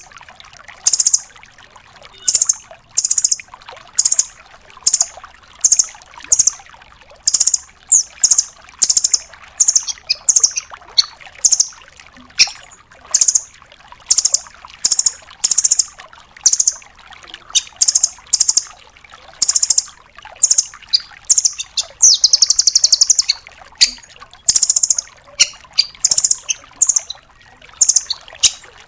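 Velvet-fronted nuthatch (rambatan doraemon) giving loud, high, sharp call notes over and over, about one to two a second. A rapid buzzy trill comes a little over twenty seconds in.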